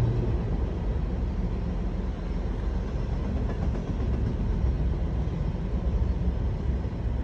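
Steady low rumble of a Union Pacific freight train rolling past.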